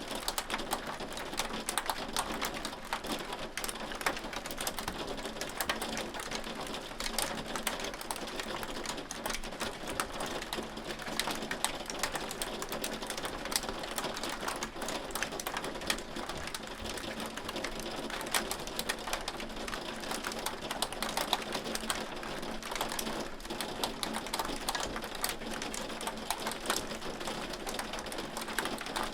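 Hailstones falling and striking a hard surface: a dense, irregular patter of sharp ticks over a steady hiss.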